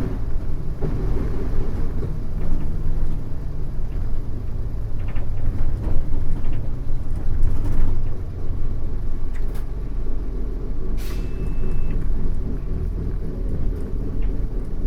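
On-board running sound of a Mitsubishi Fuso U-MK618J route bus: the diesel engine runs steadily under way, its pitch shifting a few times. There is a short sharp air hiss about eleven seconds in.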